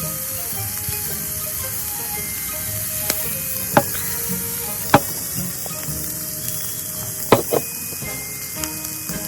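Meat sizzling on a hot barbecue grill, a steady frying hiss with a few sharp clicks or pops about three, four, five and seven and a half seconds in.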